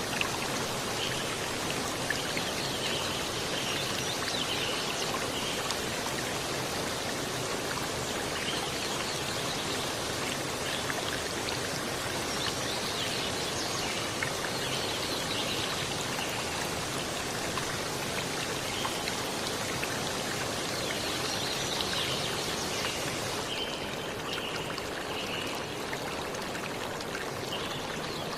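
Steady rushing water, with faint high chirps coming and going; the hiss turns duller about three-quarters of the way through.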